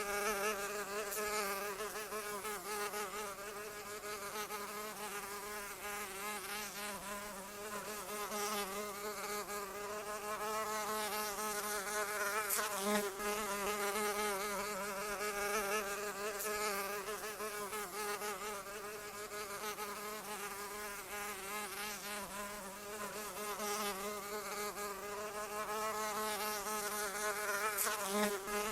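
A flying insect's wings buzzing without a break, a steady drone whose pitch wavers slightly up and down as it flies.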